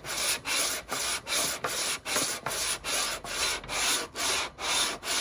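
Subaru Forester aluminium cylinder head being pushed back and forth on sandpaper over a flat tile, a rhythmic scraping of about two strokes a second: hand-lapping the head's deck flat.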